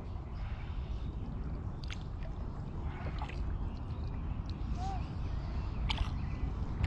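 Water sloshing and gurgling against a kayak hull, over a steady low rumble, with a few sharp light knocks about two seconds in and again near the end.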